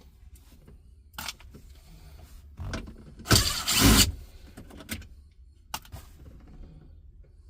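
Scattered clicks and knocks of car dashboard panels and parts being handled and worked loose, with a loud noisy rustle in two quick pulls a little over three seconds in.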